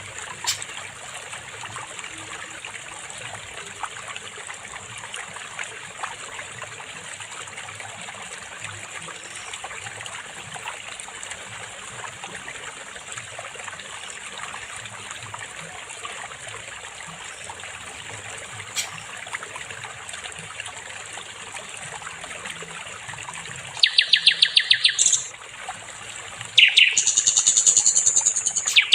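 Steady trickling of running water, then near the end a sikatan londo songbird gives two loud, rapid trilling phrases of a second or two each.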